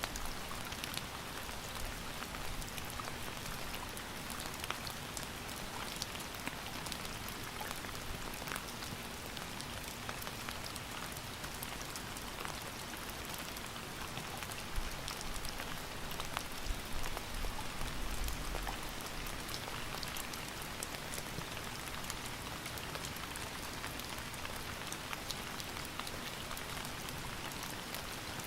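Steady rain falling, with many individual drops ticking sharply on a surface close by. For a few seconds past the middle there is a low rumble with a few louder thumps.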